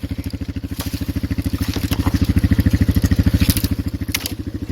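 Polaris Magnum 425 ATV's single-cylinder four-stroke engine running at a low, steady putt, with a few short sharp clicks and scrapes over it.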